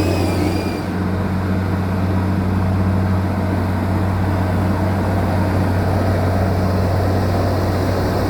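Bulldozer's diesel engine running steadily with a deep, even drone. A brief high squeal sounds in the first second.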